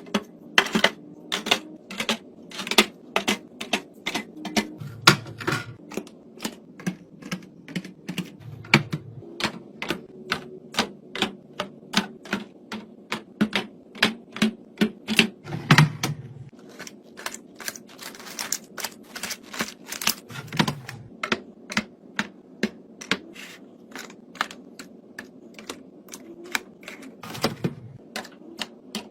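Steady run of sharp clicks, about two to three a second, like typing, with a low thud now and then (five in all).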